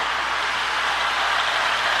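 Marx E7 toy electric train locomotive running steadily along the track pulling a nine-car train: an even whir of the small motor and gears with the rattle of the wheels on the rails.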